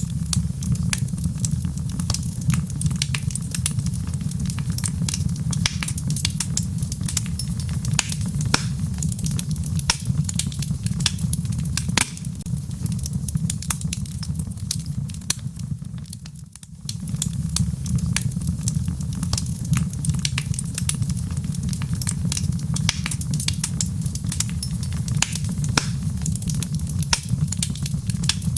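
Burning logs in a fireplace, crackling with many sharp pops over a steady low rumble of flame. The sound dips briefly about halfway through.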